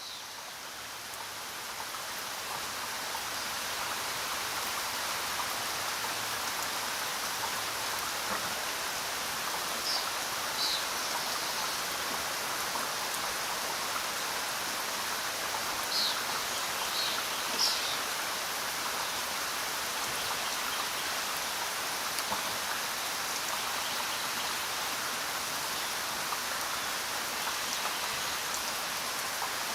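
Steady rainfall, an even hiss of falling drops that fades in over the first few seconds and then holds level, with a few brief high chirps about ten seconds in and again around sixteen to eighteen seconds.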